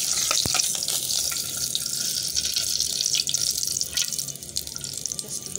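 Egg-dipped bread sizzling and crackling as it fries in hot oil in a metal pot, with occasional clicks of a metal slotted spoon against the pot.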